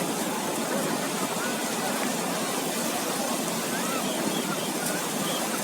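Steady wash of surf on a sandy beach, with faint distant voices of people mixed in.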